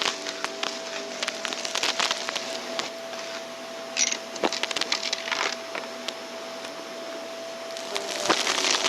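Vacuum cleaner running with a steady whine while picking up crunchy debris, a dense crackle of sharp clicks and snaps over the motor. The sound cuts off suddenly at the end.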